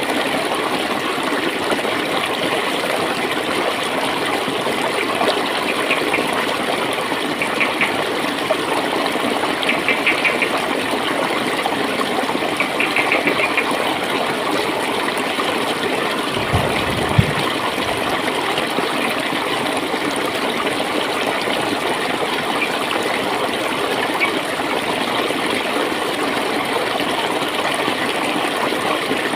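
Clear water flowing and gurgling steadily, with a few short spells of quick, light bubbling patter and one low thump about two-thirds of the way through.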